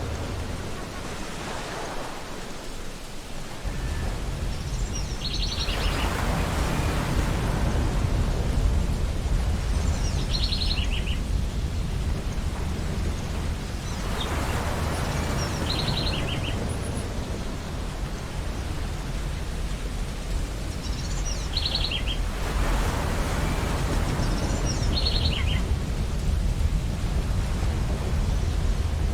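Ocean surf washing ashore in slow surges, over a deep steady rumble. About five times, a gull gives a short run of quick, high calls.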